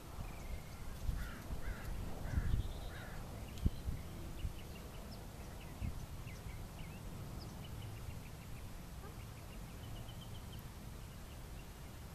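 Birds calling: four harsh calls in a row between one and three seconds in, then scattered short high chirps, over a low rumble, with a single thump a few seconds in.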